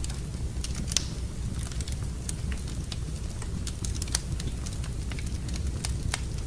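Wood fire in a fireplace crackling: irregular sharp pops and snaps over a steady low rumble, the sharpest pops about a second in and near four seconds in.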